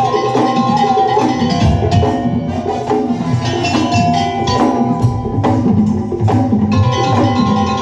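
Madurese daul music played live by a percussion ensemble: quick drum and wooden knocking rhythms, with a held melody line over them that bends slightly in pitch.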